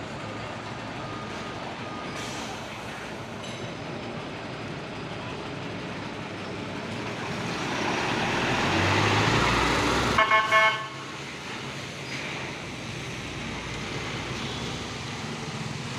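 Steady street traffic noise that swells as a vehicle passes close by. About ten seconds in, a vehicle horn gives three short toots.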